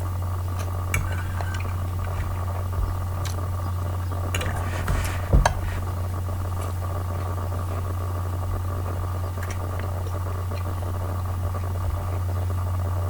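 Cutlery and dishes clinking and knocking now and then during a meal, the loudest knock about five seconds in, over a steady low hum.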